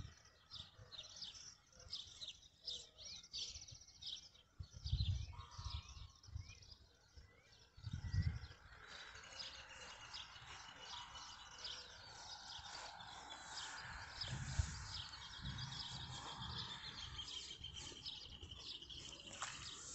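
Small birds chirping in quick repeated calls, turning to a denser, continuous chatter from about eight seconds in. Two short low rumbles on the microphone, about five and eight seconds in, are the loudest moments.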